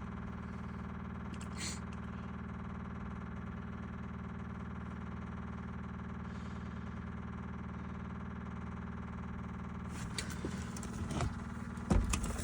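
A steady low hum for most of the time, then from about ten seconds in a few clicks and rattles, and near the end the starter begins cranking the old mechanical diesel on a cold start.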